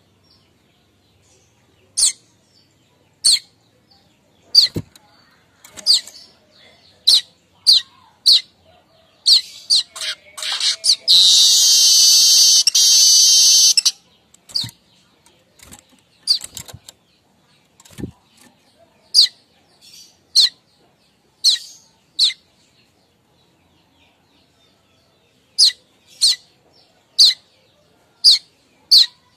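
Streaked weaver giving sharp, high single chip calls, irregularly spaced about a second apart, with one loud buzzy chattering song lasting about three seconds, starting about eleven seconds in.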